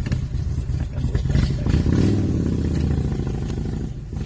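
A vehicle engine running steadily, swelling louder from about a second in and easing off near the end.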